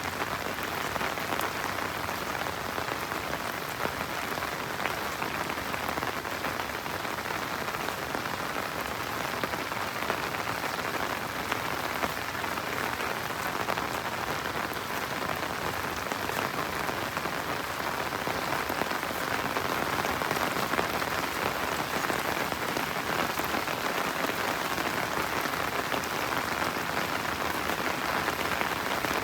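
Steady rain falling and pattering on surfaces, dense with many small drop impacts, getting slightly heavier partway through.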